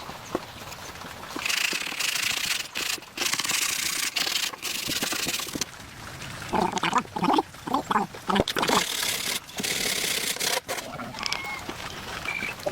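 Rough scraping and rubbing of wood being worked by hand, stopping and starting with short pauses, with a few short pitched sounds around the middle.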